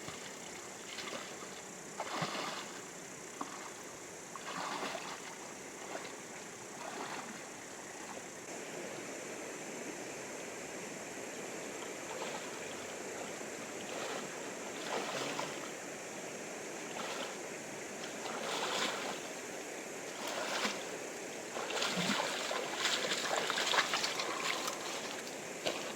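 Flowing river water, a steady rush with louder noisy swells every few seconds that come closer together near the end.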